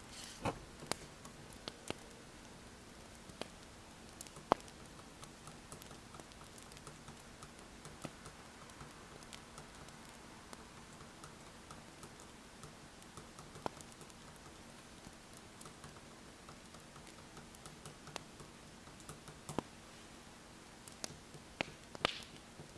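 Wood fire crackling, with sharp pops at irregular intervals, mixed with the soft scratching of a pen writing on paper over a faint steady hum.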